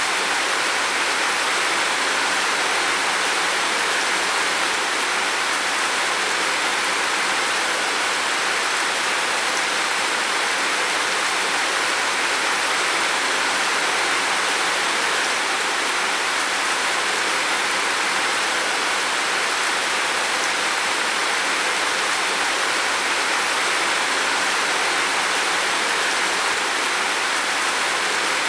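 Heavy rain falling on a roof, a steady, dense hiss with no let-up.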